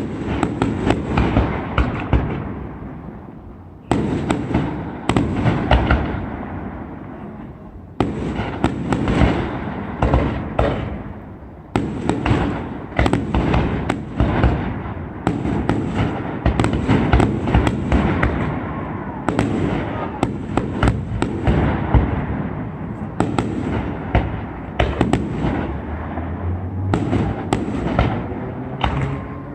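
Aerial fireworks display: salvos of sharp bangs and crackling reports, a new group every few seconds, each one fading away in a drawn-out echo before the next.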